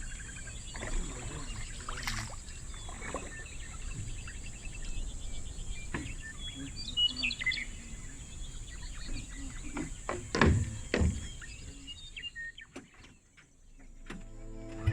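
Outdoor ambience with birds chirping over a steady high-pitched drone, and two knocks about ten seconds in. An engine starts up right at the end.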